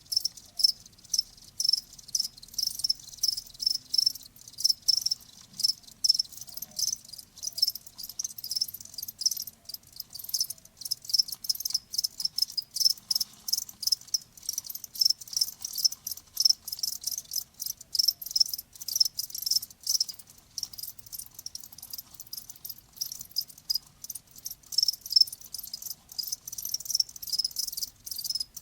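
Crickets chirping in a fast, unbroken run of high-pitched pulses.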